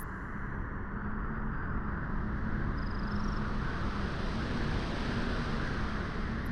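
Wind blowing steadily, swelling slightly over the first second or two, with a faint short chirp about three seconds in.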